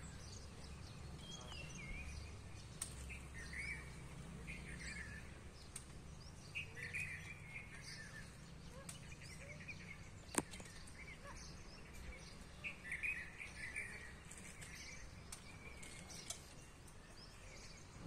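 Birds chirping: short, scattered calls over a faint low rumble, with a single sharp click about ten seconds in.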